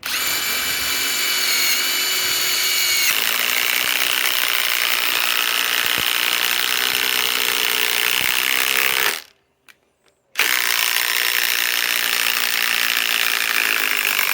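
Ryobi PSBIW25 compact impact wrench driving a long lag screw into wood. It runs for about nine seconds, with a steady whine in the first three that then gives way to hammering. After a stop of about a second it runs again.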